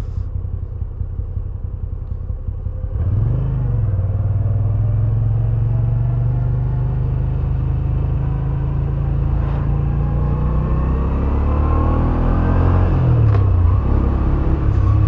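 Moto Guzzi V7 850's air-cooled transverse V-twin engine running under way. It is quieter for the first few seconds, then picks up and climbs about three seconds in and holds a steady note. Near the end the note drops and rises again.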